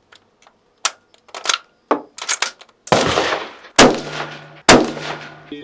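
Gunshots at an indoor shooting range. First come a few sharp clicks and lighter reports, then three loud shots about a second apart, each followed by a long echoing tail.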